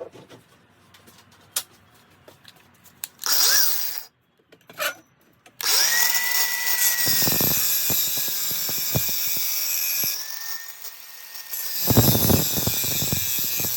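Battery-powered cutting tool cutting steel exhaust pipe: two short bursts, then a steady motor whine with cutting noise that sags about ten seconds in and picks up again near the end. The battery is running flat.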